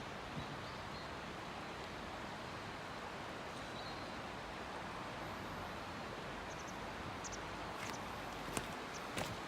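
Steady rush of river water flowing, with a few faint bird chirps and some light clicks near the end.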